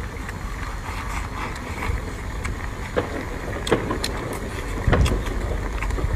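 A person eating seafood with audible mouth sounds: a few short, sharp smacks or clicks around three to five seconds in, over a steady low rumble.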